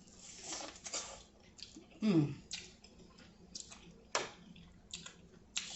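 Close-miked eating: chewing and wet mouth sounds from a buttery seafood boil, broken by scattered sharp clicks, with a short falling voiced sound about two seconds in.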